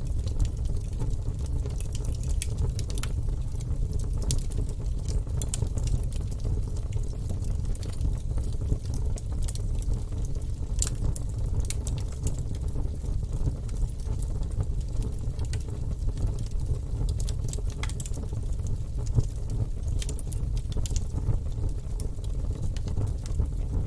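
Wood fire burning in a fireplace, with a steady low roar and frequent irregular crackles and snaps from the logs.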